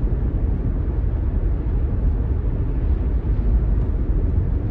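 Steady low rumble of a Toyota car's engine and road noise heard from inside the cabin while driving.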